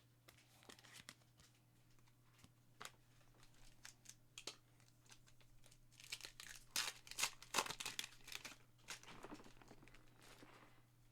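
Foil trading-card pack being torn open and its wrapper crinkled, loudest and densest from about six to nine seconds in, with scattered light ticks and rustles before it.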